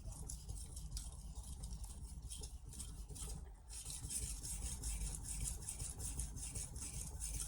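Steel knife blade stroked back and forth on a splash-and-go whetstone, a quick run of even grinding strokes at about three a second, with a brief pause a little past the middle.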